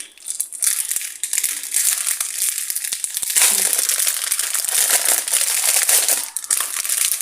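Plastic packaging of a diamond painting kit crinkling as it is handled and pulled open, a continuous crackle that gets louder about three seconds in.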